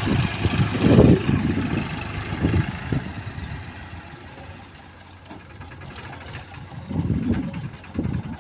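Heavy diesel machinery running, with louder surges about a second in and again near the end.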